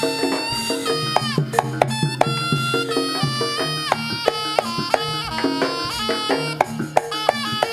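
Jaranan Senterewe music played live: a held, reedy wind melody moving in steps over a dense beat of sharp drum strokes.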